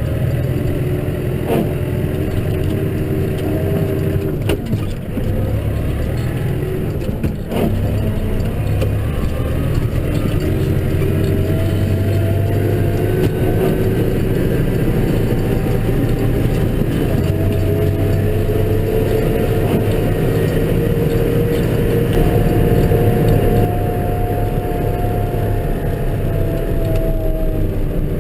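Case tractor engine running steadily, heard from inside the cab, with a whine that slowly rises and falls in pitch. There are a few sharp clunks in the first several seconds.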